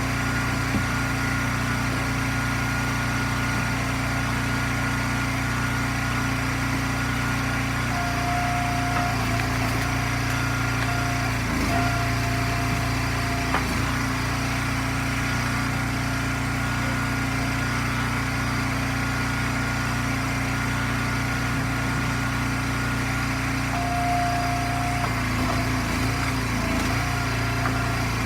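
Small gas engine of an Eastonmade hydraulic firewood splitter running steadily. A higher tone comes and goes several times, and the engine note dips briefly a few times as the splitter works.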